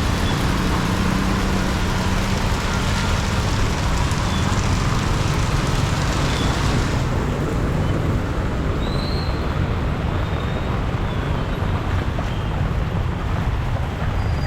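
Heavy rain hissing steadily over the rumble of road traffic; the high hiss drops away abruptly about halfway through.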